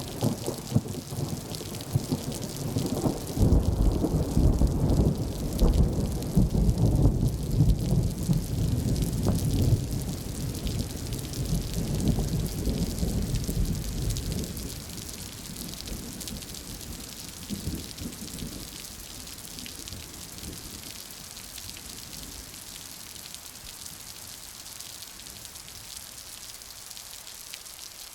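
Steady rain falling, with a long, deep rumble of thunder over the first half that fades away, leaving only the hiss of the rain.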